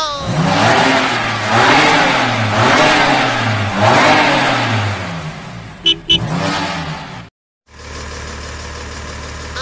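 Car engine revving sound effect, surging up and falling back about five times, followed by two sharp short clicks about six seconds in. After a brief dropout near the end, a steady low hum.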